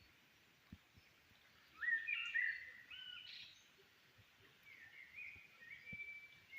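A bird singing: a burst of clear whistled notes jumping up and down in pitch about two seconds in, then a second phrase of sliding whistles in the last couple of seconds.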